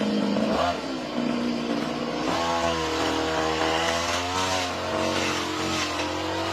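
Lawn mower engine running under load in thick grass, its pitch dipping briefly about a second in and then wavering up and down.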